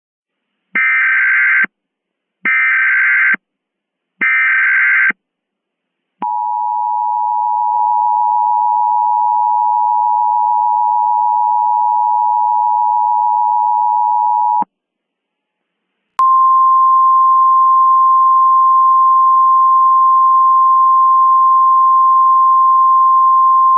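Emergency Alert System tones. Three one-second bursts of SAME header data, a warbling digital screech, come first. Then the two-tone EAS attention signal sounds steadily for about eight seconds. After a short pause comes a steady single-pitch 1050 Hz alert tone.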